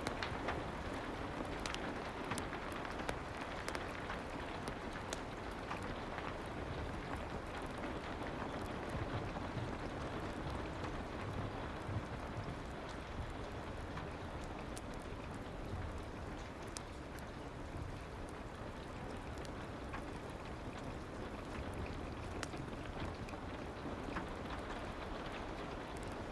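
Steady soft rain with occasional sharp crackles from a fireplace mixed in.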